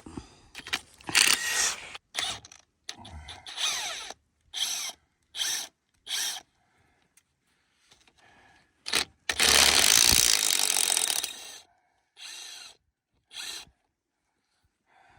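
Bolts on a locking hub being backed out with a tool, in a series of short mechanical bursts of about half a second each, with one longer run of about two seconds past the middle.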